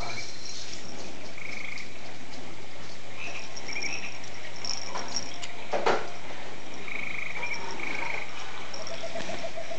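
Electronic rainforest animal sounds played from a baby activity gym's toy speaker: frog croaks and short trilled chirping calls repeating over a steady hiss, with a single knock about six seconds in.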